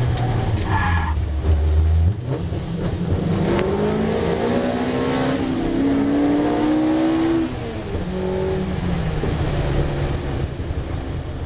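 BMW S14 four-cylinder race engine in a 1974 BMW 2002, heard from inside the cabin, accelerating hard at full throttle. It climbs in pitch, drops sharply at an upshift about seven and a half seconds in, then climbs again.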